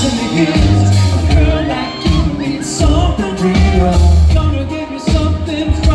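Live band playing a pop/R&B song with a singer's vocals over a heavy bass line that pulses in blocks about a second long.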